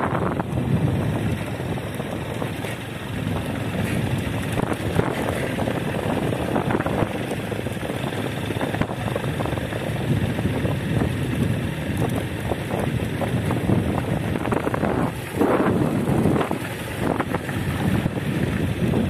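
Wind buffeting the microphone over the steady rumble of a moving vehicle, swelling and easing in gusts.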